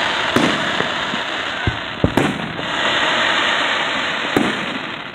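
Aerial fireworks shells bursting overhead: sharp bangs about half a second in, twice close together around two seconds, and again past four seconds, over a steady, dense noisy hiss.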